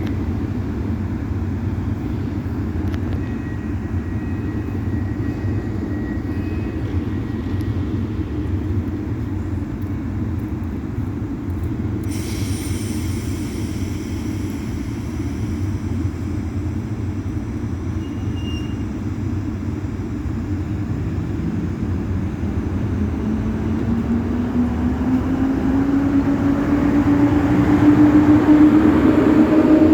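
Intercity passenger train pulling out of a station: a steady low rumble of the rolling carriages, and in the last several seconds a rising whine that grows louder as the train gathers speed.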